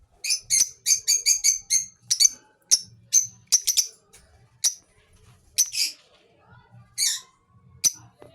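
Lovebirds chirping: a fast run of short, high chirps over the first two seconds, then scattered single chirps and a couple of longer, harsher calls.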